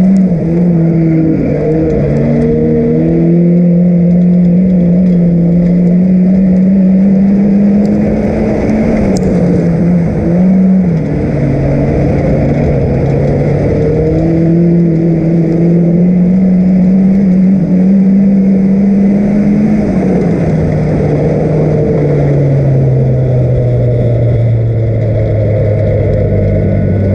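Mitsubishi Sigma production sedan's engine, heard from inside the cabin, running loud at high revs in a race. The pitch climbs along the straights and dips twice as the driver lifts for the turns, then falls to a lower, steady note over the last few seconds as the car slows.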